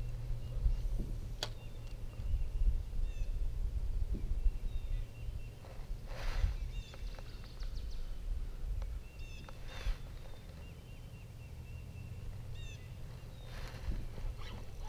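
Songbirds chirping again and again over a steady low rumble, with a few brief whooshes about six, ten and fourteen seconds in.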